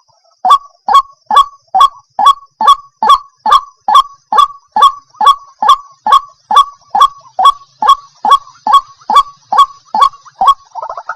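White-breasted waterhen calling: a long, even series of short notes, each falling in pitch, about two and a half a second. A fuller, denser call breaks in right at the end.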